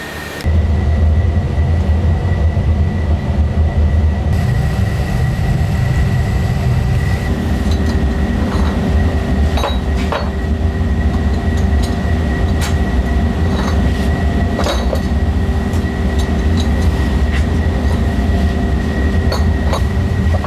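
Heavy factory machinery running with a steady low rumble and a steady high whine, with scattered metallic clinks and ticks. It starts abruptly about half a second in.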